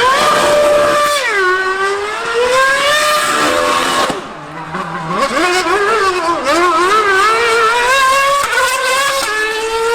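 High-revving racing engine at speed, its pitch climbing and falling repeatedly as it accelerates, shifts and slows, with a brief drop in level a little before halfway.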